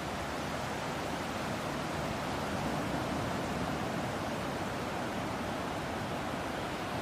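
Steady rushing of ocean surf and sea breeze, an even noise with no distinct wave swells.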